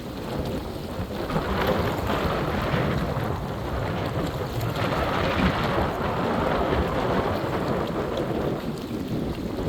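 Thunderstorm noise: thunder rumbling over a steady hiss of rain, swelling about a second in.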